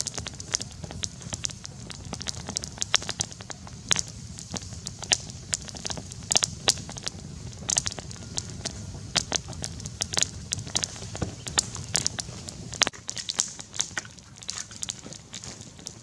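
Campfire crackling: many irregular sharp snaps and pops over a low steady rumble.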